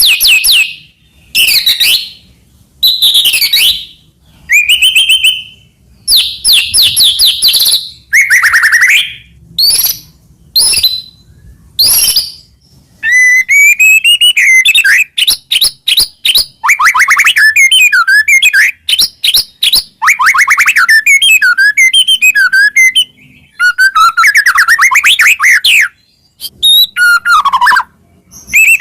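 White-rumped shama (murai batu) singing loudly: a varied run of short whistled phrases, sweeping notes and fast trills, broken by brief pauses. In the second half the phrases become longer strings of quick repeated notes.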